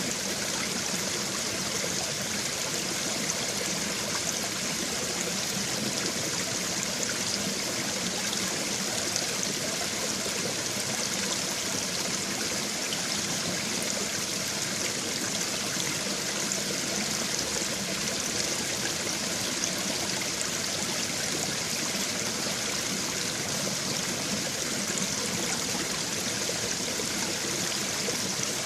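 A shallow babbling brook, water running and trickling over stones in a steady, even rush.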